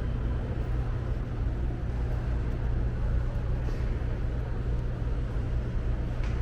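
Steady low rumble with a faint even hiss above it, and no distinct events.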